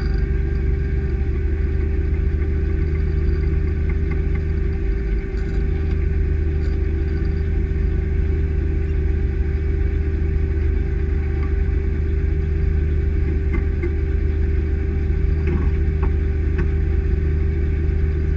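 Truck engine and road noise heard inside the cab: a steady low rumble with a constant hum, and a few light clicks or rattles near the end.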